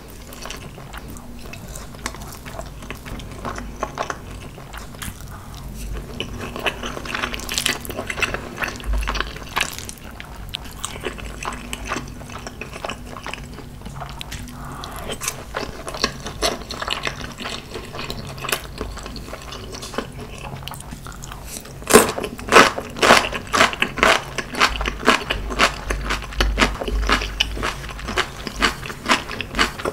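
Close-miked wet chewing and mouth sounds of someone eating spicy marinated crab with rice, with soft clicks and squelches throughout. The chewing turns louder and faster in the last third.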